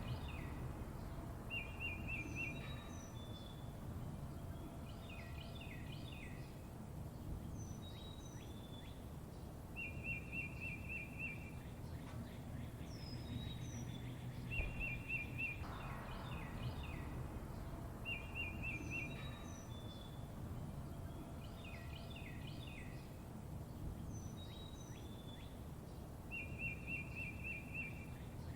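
Songbirds chirping and calling over a steady low background rumble: a short, even trill comes back about every eight seconds, between clusters of quick chirps and high, falling whistled notes.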